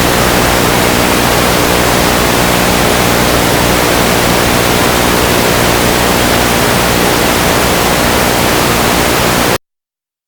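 Loud, steady hiss of static that cuts off suddenly near the end: electronic noise in the recording, typical of a signal dropout or glitch rather than a sound at the scene.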